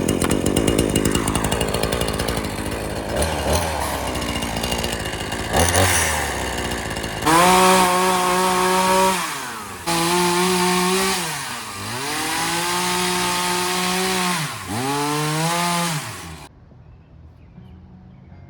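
Chainsaw running roughly for several seconds, then revved at high throttle several times, its pitch dropping and recovering between the bursts, before it cuts off suddenly near the end.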